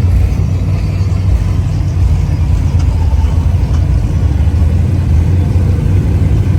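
A car engine running steadily with a deep, even rumble.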